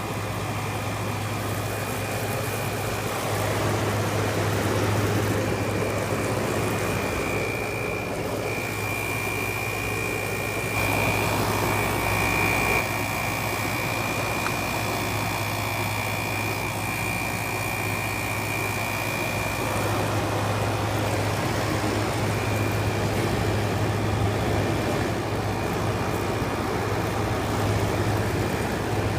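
Window air conditioner running: a steady low hum with fan noise and a faint high steady tone.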